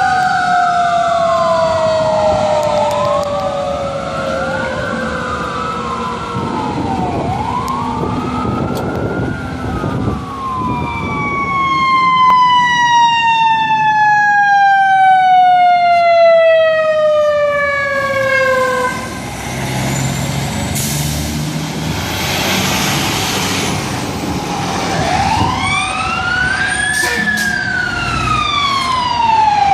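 Fire engine sirens wailing, their pitch rising and falling over and over. Around ten seconds in, one siren tone falls steadily for several seconds, and near the end another wail rises and falls.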